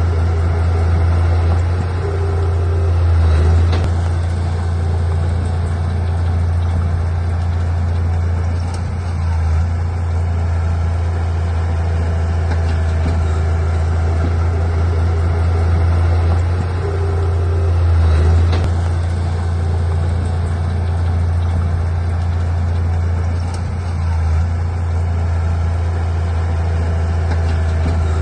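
Heavy diesel earthmoving machine's engine running steadily, with its deep drone swelling briefly under load twice, about 3 and 18 seconds in.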